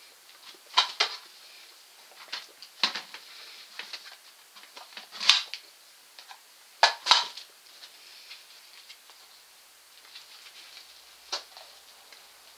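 Scattered sharp clicks and light clatters, some in quick pairs, from a dog handling objects and a bucket during shaping training.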